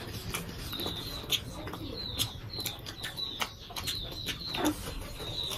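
Close-miked eating sounds: chewing with a steady stream of short, sharp mouth clicks and smacks, several a second.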